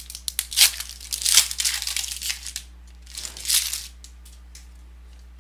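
A trading card pack's wrapper being torn open and crinkled for about two and a half seconds, then a shorter crinkle a little later.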